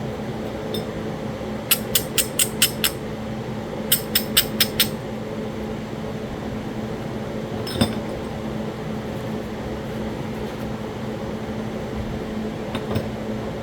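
Hammer stone tapping on Talahata quartzite: two quick runs of five or six light taps, then a single tap a few seconds later, over a steady low hum.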